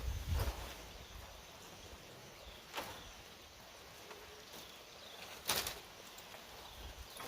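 Three short sharp knocks or snaps a couple of seconds apart over a faint outdoor background; the last one is the loudest.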